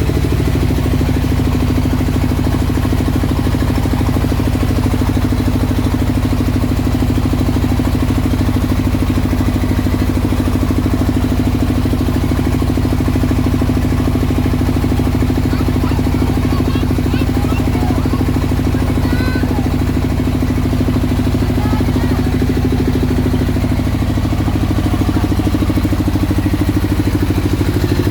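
Single-cylinder rice mill engine running steadily at a constant speed, its pitch and loudness holding even throughout.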